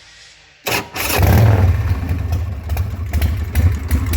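Harley-Davidson Sportster 1200's air-cooled V-twin engine cranked and starting right up: a short burst under a second in, then it catches and runs loud with an uneven, lumpy beat.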